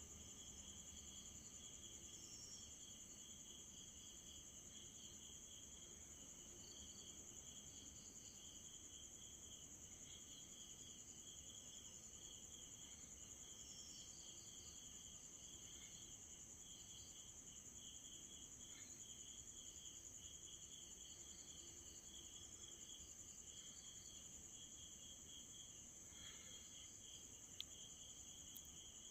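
Night insects, crickets among them, chirping faintly: a steady high trill with a lower, rapidly pulsing chirp underneath.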